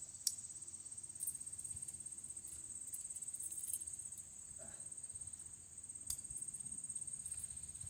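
Crickets trilling steadily at a high pitch in a fast, even pulse. A couple of sharp clicks come through, one just after the start and one about six seconds in.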